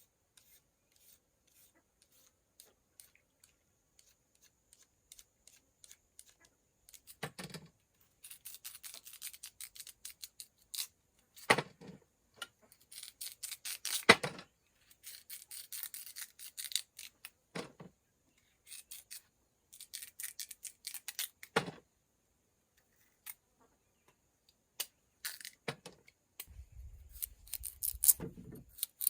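Bursts of quick scraping and rubbing strokes from something being worked by hand, with a few sharp knocks in between and a low rumble near the end.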